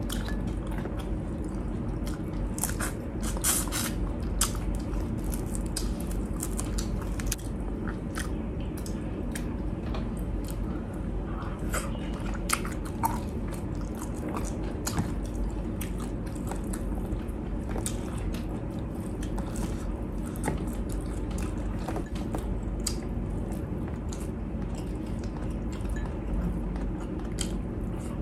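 Close-miked eating with bare hands: chewing with wet mouth sounds and many scattered sharp smacks and clicks, over a steady low background hum.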